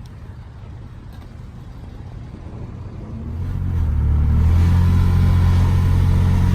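Motor vehicle engine and exhaust running with a low, steady drone that swells sharply about three seconds in, then holds loud and even.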